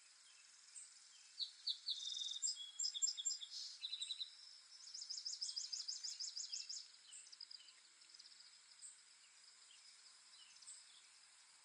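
Birds singing in high, rapid trills and repeated chirps: a burst of song from about one to four seconds in, a second run of fast repeated notes from about five to seven seconds, then only a few faint chirps over a steady faint hiss.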